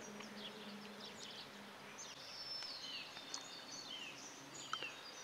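Small birds calling in the trees: many short high chirps and quick falling whistles scattered throughout. A faint low hum runs under the first two seconds.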